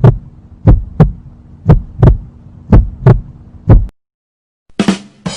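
Heartbeat sound effect: double lub-dub thumps about once a second over a low hum, four beats, stopping about four seconds in. Near the end, after a short gap, come a couple of brief hits and the start of the next effect.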